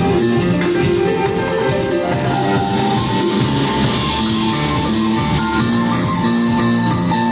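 Live band playing loud music: held notes over a fast, steady beat with no break.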